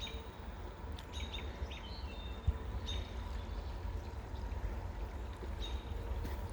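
Birds chirping, several short high calls, over a steady low rumble and the rushing of a creek in the background.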